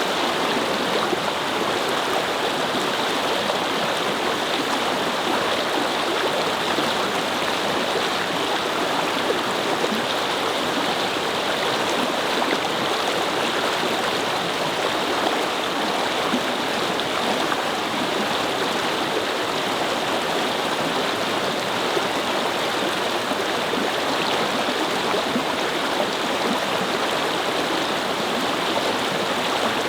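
A shallow brook babbling and flowing over stones, a steady, even rush of water.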